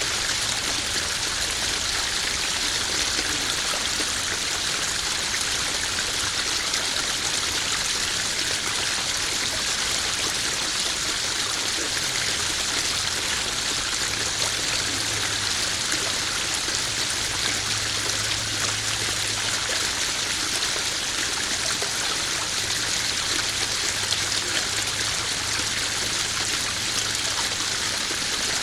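Small garden waterfall splashing steadily into a koi pond, a continuous even rush of running water.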